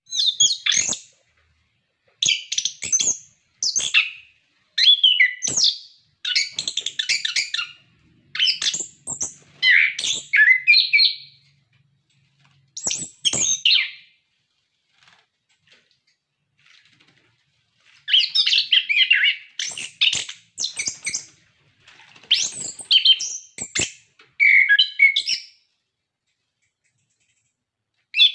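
Chestnut-capped thrush singing in full voice: short bursts of rapid, varied high whistled and chattering notes, phrase after phrase with brief pauses, and a longer silent gap about midway.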